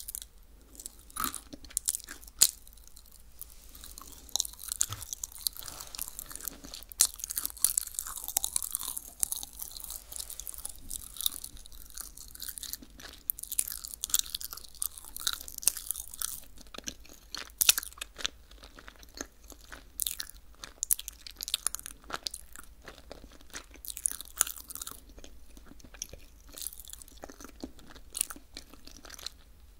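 Close-miked biting and chewing of a piece of crisp dried fruit: a few sharp crunches near the start, then a long run of dense, crackling chewing that thins out toward the end.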